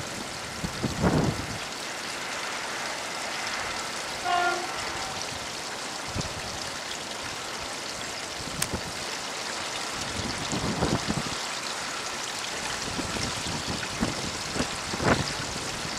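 Diesel multiple unit approaching, its running faint under a steady hiss of wind on the microphone, with one short horn toot about four seconds in. A few low thumps of wind buffeting the microphone come and go.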